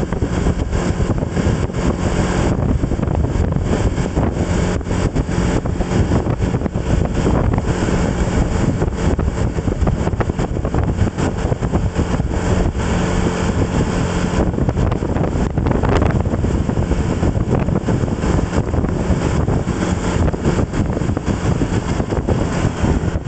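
Steady wind rush on the microphone over a running vehicle engine, a constant rumble while on the move.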